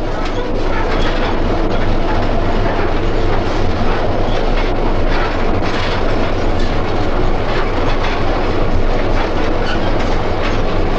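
Ride noise inside a 1929 South Shore electric interurban coach under way: a steady rumble of wheels on rail, with scattered clicks from the track.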